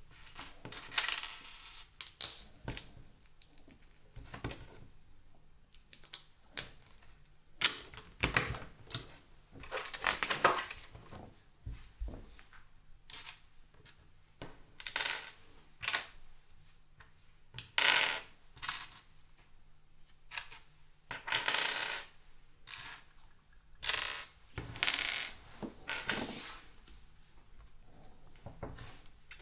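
Small plastic LEGO pieces clicking and clattering in irregular bursts as they are picked through and pressed together.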